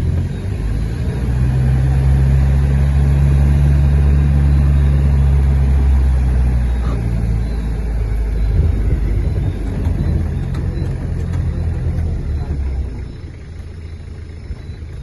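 Motor vehicle engine running steadily while driving, with road noise, loud at first and quieter near the end.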